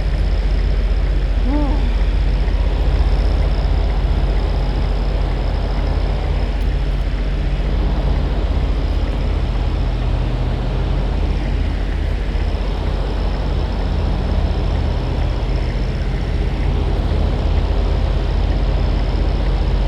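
Semi truck's diesel engine running steadily with a low, even drone. A brief faint chirp sounds about a second and a half in.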